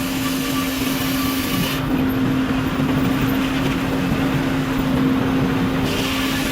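Sawmill circular saw running with a steady hum and a constant tone, over a dense mechanical rumble.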